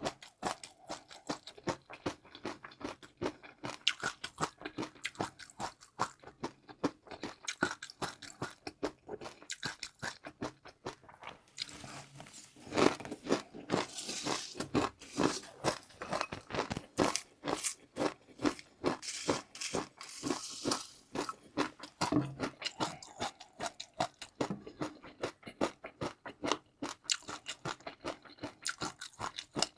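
Close-miked eating: rapid crunching and chewing of crunchy food, louder and denser from about twelve to twenty-one seconds in.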